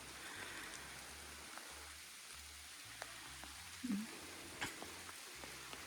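Steady light rain falling in a forest, with a few sharp ticks of single drops.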